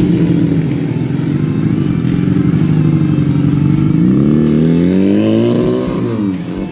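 Motorcycle with a 250 cc twin-cylinder engine running hard, its pitch fairly steady at first, climbing from about four seconds in as it revs up, then dropping off sharply near the end.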